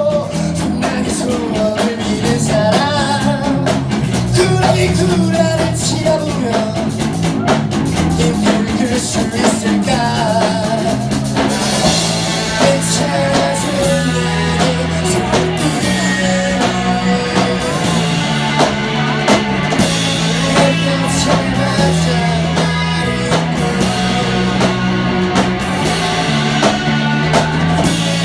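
Live rock band playing a song, with drum kit, bass and electric guitar under a sung vocal line. About eleven seconds in, the cymbals grow brighter and louder.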